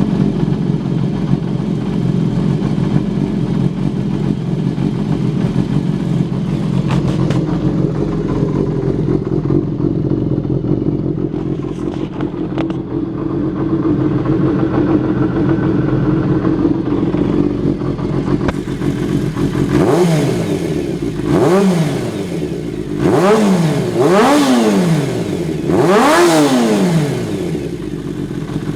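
Kawasaki Zephyr χ's 400 cc air-cooled inline-four idling steadily through a short-pipe aftermarket muffler. About two-thirds of the way in, the engine is blipped four times, each rev rising sharply and falling back to idle.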